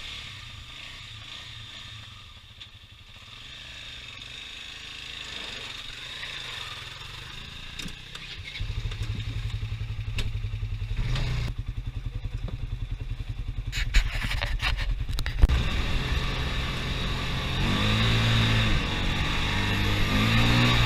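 Off-road vehicle engine running, faint at first, then close and louder from about eight seconds in, with its pitch rising and falling as it revs near the end.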